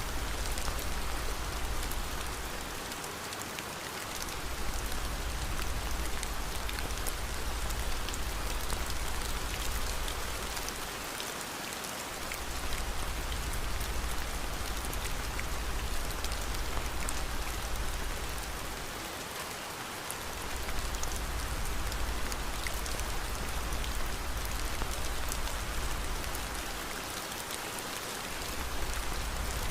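Steady rain in a rain-and-fireplace ambience mix, with scattered faint crackling ticks over it. A deep low rumble runs underneath and fades out briefly about every eight seconds.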